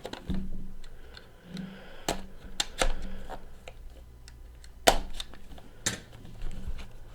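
Cardboard trading-card box being handled and torn open by hand: a string of sharp clicks and taps with some brief scraping and rustling.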